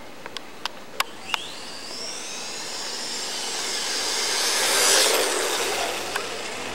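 Brushless electric motor of a 1/16 RC off-road truck whining as it speeds up. The whine rises in pitch and grows louder to a peak about five seconds in, then fades. A few sharp clicks come in the first second and a half.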